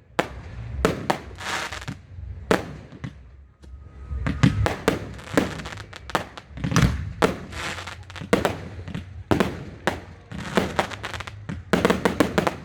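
Fireworks bursting overhead: many sharp bangs in quick, irregular succession, some close together in rapid volleys.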